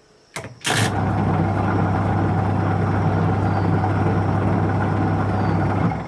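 A click, then a Haier semi-automatic washing machine's wash motor starts and runs steadily, spinning the freshly refitted pulsator wheel in a test run, with a steady low hum; it stops just before the end.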